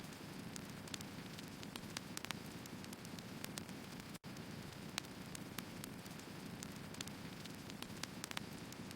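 Firewood burning: a steady low rush from the fire, broken by scattered sharp crackles and pops from the logs. A very brief dropout about four seconds in.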